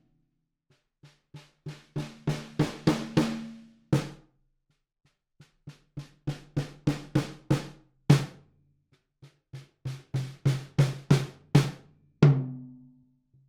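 Sampled acoustic snare drums from the Alchemy of Pop EZX for EZDrummer 3, struck one hit at a time from very soft to full force. Three runs of about a dozen hits each, every run swelling from faint taps to a hard, ringing crack, one snare after another.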